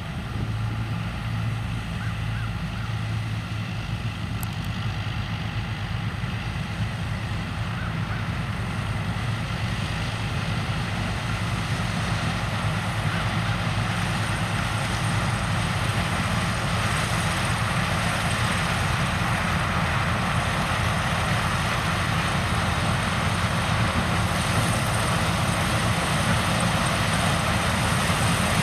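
Heavy farm machinery at a corn harvest running steadily: a low engine drone under a rushing mechanical noise that grows gradually louder through the second half.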